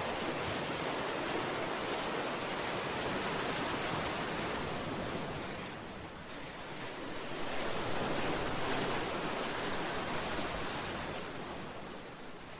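Sea waves surging and washing against a seawall and breakwater rocks, a continuous rush of surf that dips about halfway through, swells again, then eases off near the end.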